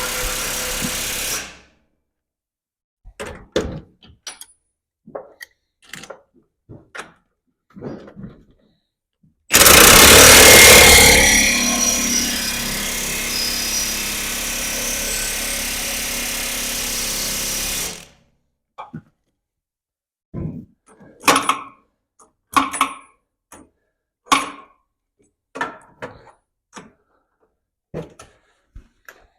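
Impact wrench running on bolts. A short run cuts off about a second and a half in, and a run of about eight seconds starts about a third of the way through, loudest as it starts and then steady. Between and after the runs come scattered clicks and knocks.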